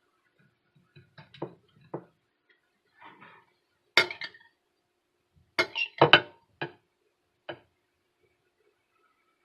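A kitchen utensil clinking and tapping against dishes in a scatter of irregular knocks, the loudest around four and six seconds in.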